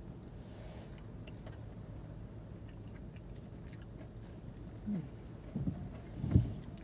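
A person eating close to the microphone: chewing and biting food, with faint scattered mouth clicks over a low steady hum. Near the end come a few short low sounds, the loudest about six seconds in.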